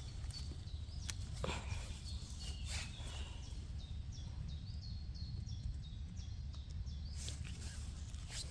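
A woodland bird calls in a steady series of short, high, falling notes, about two or three a second, from about three seconds in until about seven seconds. Dry leaf litter crackles a few times, over a low steady rumble.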